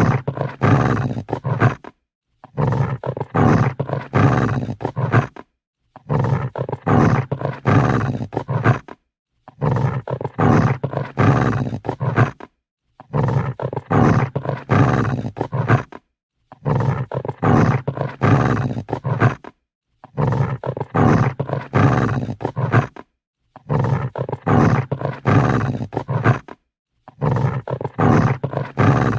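Dog growling angrily in repeated bursts of about three seconds each, separated by half-second gaps of silence.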